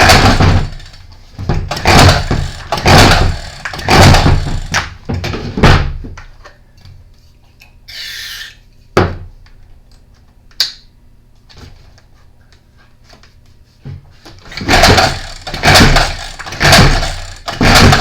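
Stihl FS40 weed trimmer's recoil starter pulled over and over, a stroke about once a second, with the two-stroke engine not catching. There is a second set of pulls near the end and a brief hiss and a click or two in between. The engine won't fire even on carb cleaner, which the owner puts down to the carburetor.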